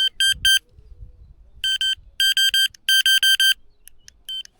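Electronic carp bite alarm beeping in irregular quick runs of short, high, identical beeps as the rod is set on the rod pod: about fifteen beeps, the fastest run a little past the middle and a single beep near the end.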